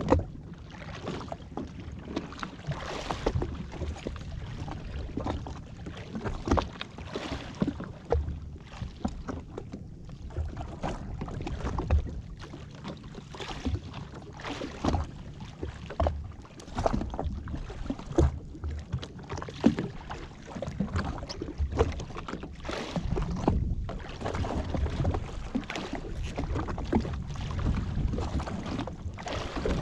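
Water slapping and splashing irregularly against a jetski's hull as it sits on the sea, with wind buffeting the microphone.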